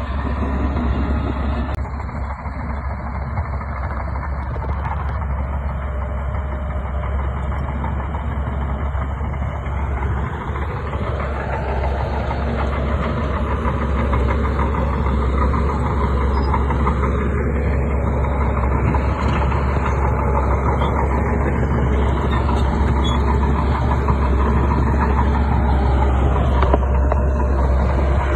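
Bulldozer's heavy diesel engine running under load with a steady low drone. Its note rises and falls a few times as it works, and it grows slightly louder toward the end.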